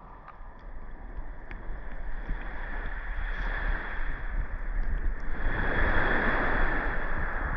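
Sea water sloshing and washing with waves, plus wind rumbling on the microphone, growing steadily louder and swelling about five seconds in.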